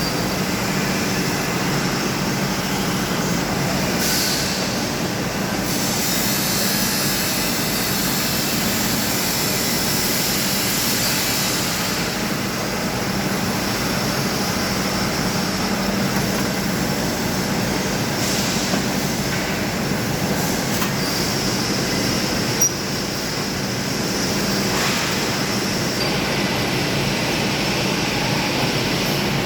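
Pulse-jet thermal fogging machine running steadily: a loud, continuous drone with a steady low hum, and one short click about three-quarters of the way through.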